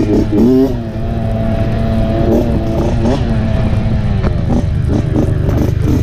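Dirt bike engine running, revving up and down in the first second, then holding a steady pitch, with a few clattering knocks from the bike over the last couple of seconds.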